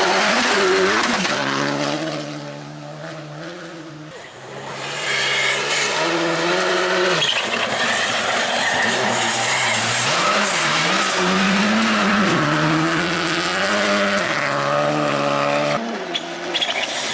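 Rally car engine at hard throttle, revving up and down with quick gear changes. It fades about two seconds in, then comes back loud and stays high-revving for most of the rest.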